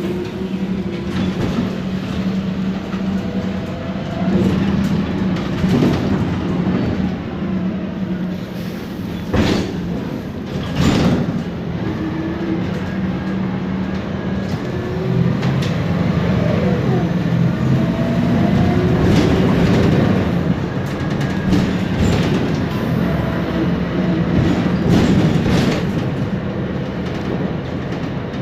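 Inside a MAN Lion's Classic city bus under way: its MAN E2876 compressed-natural-gas engine runs with a steady hum, and the ZF Ecomat six-speed automatic gearbox gives whines that rise in pitch as the bus accelerates. Two sharp knocks from the bus body come about ten seconds in.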